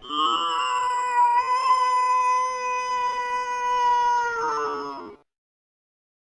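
An angry cat's long, slowed-down yowl: one drawn-out call held at a nearly steady pitch for about five seconds, sagging near the end before it stops.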